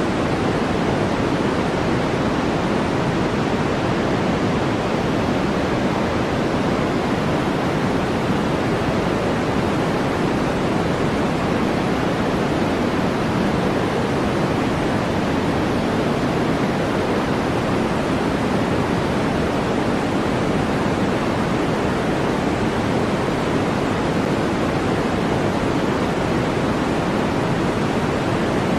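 Steady electronically generated white noise, an even, unbroken hiss with no change in level, heavier in the low and middle range than in the treble.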